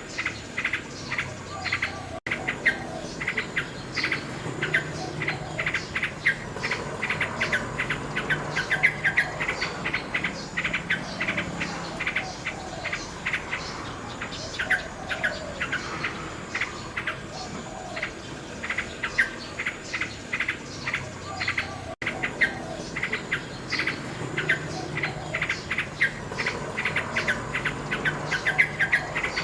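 Nightingale singing: rapid runs of short, repeated chirping notes that go on without pause, over a steady background of insects chirping.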